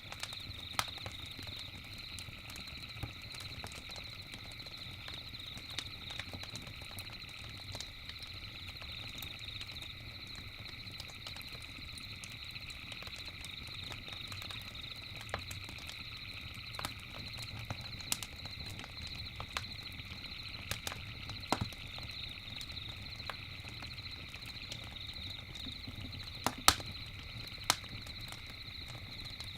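Campfire crackling, with scattered sharp pops and snaps, the two loudest close together near the end. Under it runs a steady high-pitched night chorus and a low rumble.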